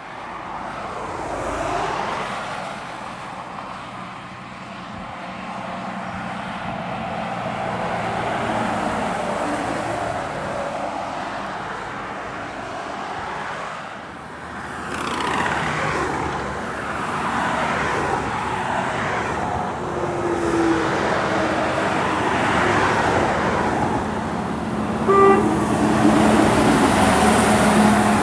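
Heavy trucks climbing a steep hill under load, their diesel engines working hard as they pass one after another. Near the end, a short blast of an air horn.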